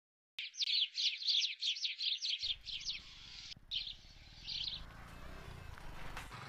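Bird chirping: a fast run of short, high, downward-sliding chirps, about six a second, then a couple of shorter bursts after a brief pause. A faint low background rumble comes in about two and a half seconds in.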